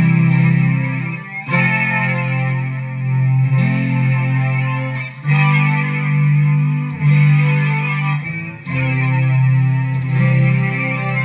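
Guitar played through a BOSS SY-200 synthesizer pedal, giving polyphonic synth tones: held chords, a new one about every one and a half to two seconds.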